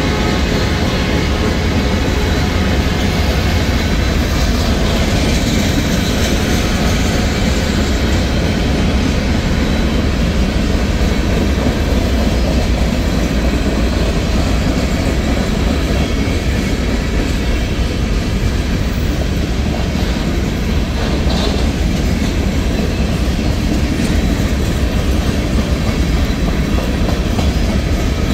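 Cars of a Norfolk Southern freight train rolling past at close range: a steady, loud rumble of steel wheels on the rails.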